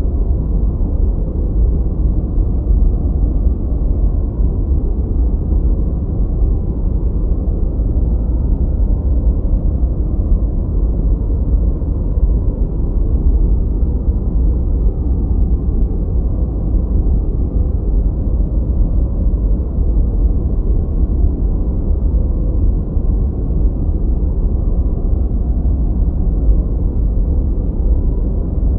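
Continuous synthetic noise with no changes. Its weight sits in the low end, so it sounds like a deep, even rumble rather than a bright hiss.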